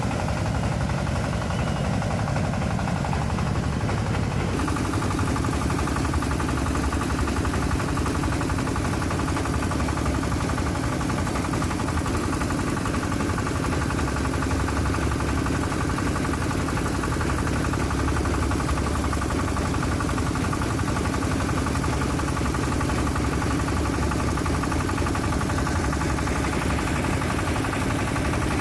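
A small engine running steadily and evenly, its tone shifting slightly about four and a half seconds in.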